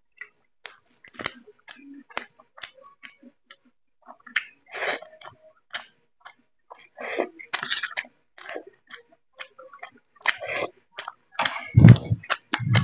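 Close-up eating sounds: a man chewing roti and chicken curry, with many short wet mouth clicks and smacks, several louder breathy bursts, and a brief low voiced sound near the end.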